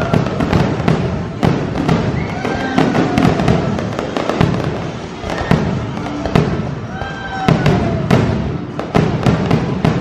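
A fireworks display: a dense, continuous barrage of bangs and crackling, with short gliding whistle-like tones among the bangs.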